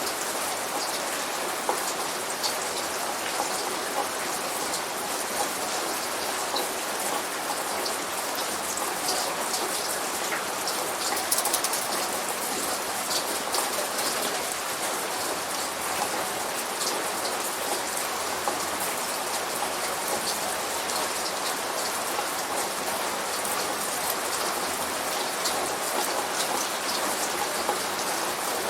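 Steady light rain falling on a surface, a constant hiss with many small drop ticks; no thunder is heard.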